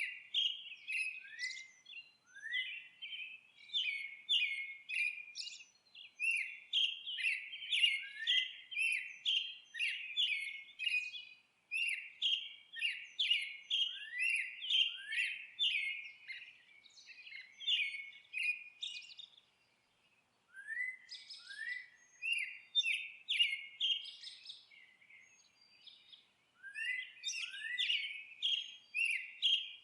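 Songbirds chirping and twittering: quick runs of short high chirps, some sliding down in pitch, broken by a few brief pauses.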